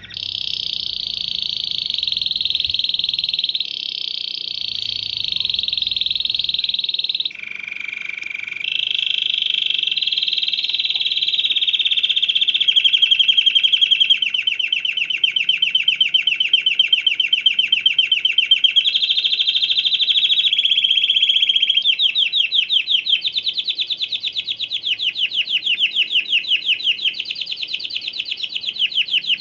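Domestic canary singing one long unbroken song of fast rolling trills, switching to a new repeated phrase every few seconds. Near the end come quicker, pulsing trills, and then the song cuts off suddenly.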